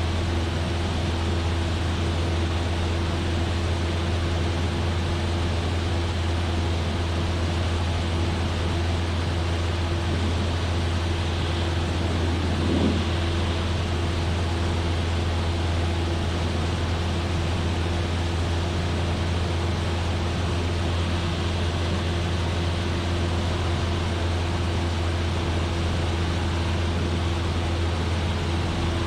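Cessna 172F's Continental O-300 six-cylinder engine and propeller running steadily in cruise, heard from the cockpit as a constant low hum with a steady higher tone over a hiss of airflow. A short faint sound comes about thirteen seconds in.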